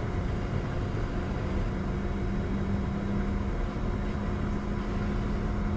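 Steady cockpit noise of a Bombardier Challenger 605 on the ground with its GE CF34 turbofans running at idle and the air-conditioning packs on: an even rushing hum with a low drone. The drone shifts slightly higher in pitch about three and a half seconds in.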